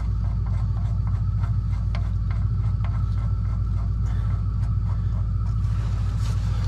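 An engine idling steadily with a low, even hum, with a few faint clicks of hand tools on top.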